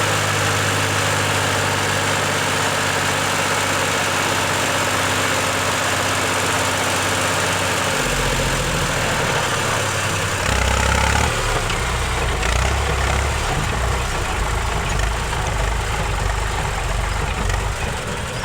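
Eicher 485 tractor's diesel engine running at idle with a steady low note; about eight seconds in the note changes, and from about ten seconds on it runs louder and more unevenly.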